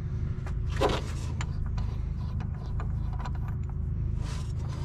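Metal parts being handled: scattered clicks and knocks, with a short scrape about a second in and another near the end, over a steady low hum.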